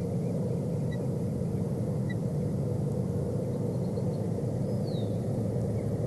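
Steady low rumble at the nest, with faint, short high chirps from osprey about one and two seconds in and a brief downward-sliding call near five seconds.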